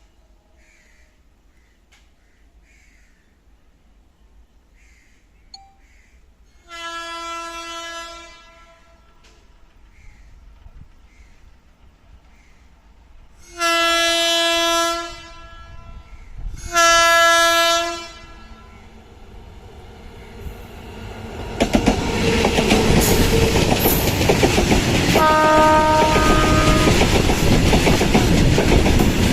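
A freight train's locomotive horn sounds three blasts of a second or so each, the last two close together. Then the train passes at speed with loud, continuous wheel clatter on the rails, and a shorter horn note comes during the pass.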